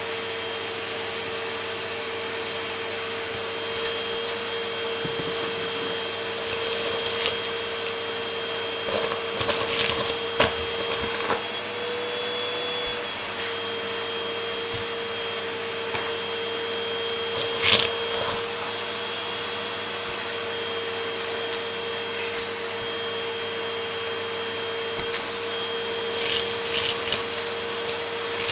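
Vacuum cleaner running steadily with a constant motor whine, broken several times by bursts of crunching and crackling as it sucks up debris.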